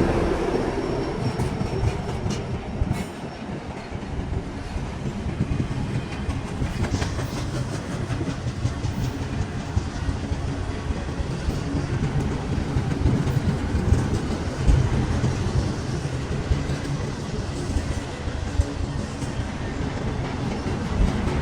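Train rolling past, a steady rumble of wheels on rail with rapid clicking as the wheels cross rail joints.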